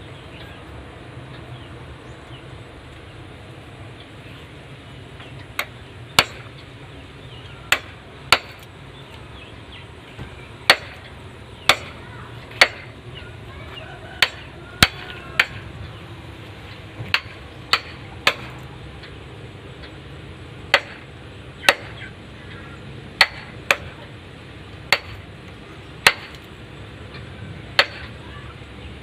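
Sharp, hard strikes of a hand tool, about twenty in all, irregularly spaced one or two a second apart, starting about five seconds in, like chopping or hammering.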